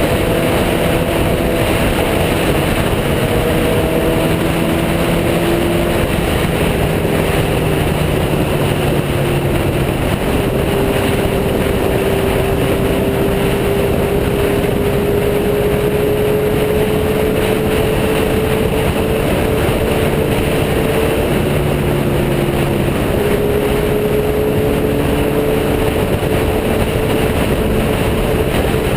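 Motorcycle riding at a steady speed: a steady engine hum that drifts slowly up and down in pitch, under a loud, constant rush of wind noise.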